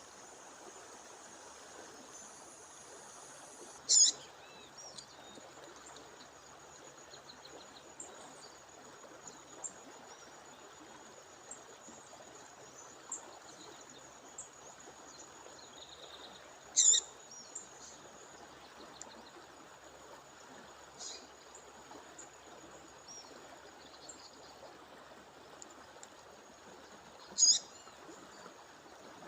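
A female songbird giving a short, sharp, high call three times, roughly ten to thirteen seconds apart, over the steady rush of a waterfall stream. A thin steady high whine and a few faint chirps run underneath.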